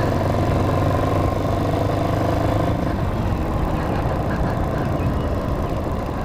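Hawk 250 dual-sport motorcycle's single-cylinder engine running under way, its steady note changing about halfway through. The rider says the carburettor is still not working 100%.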